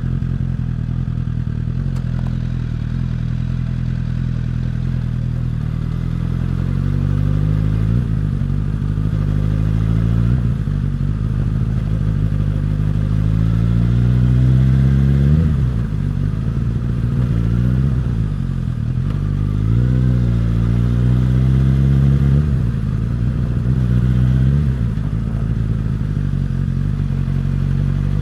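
Suzuki GSX-S1000's inline-four engine and exhaust under way. It runs steadily at first, then from about eight seconds in it accelerates several times, the pitch climbing and then falling sharply at each gear change, before settling to a steady run near the end.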